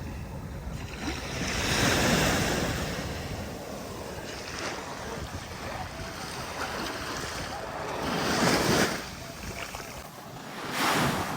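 Sea waves washing up the beach, surging louder three times, with wind on the microphone.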